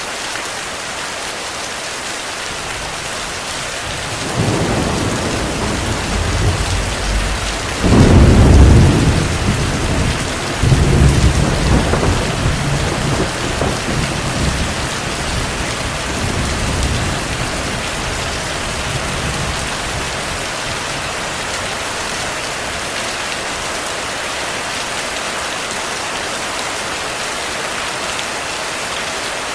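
Heavy rain falling steadily, with a long roll of thunder that builds about four seconds in, peaks loudest around eight seconds, surges again just after ten, and rumbles away by about halfway.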